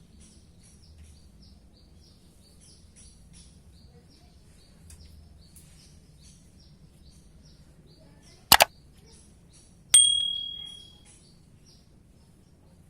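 Green leafbird (cucak hijau) giving a faint run of rapid, high, short chirps. About eight seconds in comes a loud, sharp double click, then a metallic ding that rings and fades over about a second.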